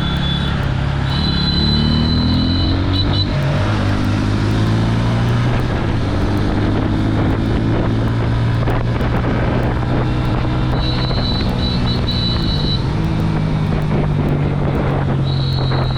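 Single-cylinder engine of a Bajaj Pulsar N160 motorcycle running while riding, its pitch climbing under throttle and dropping at gear changes several times, with wind noise. A high steady tone sounds briefly about a second in and again around eleven seconds.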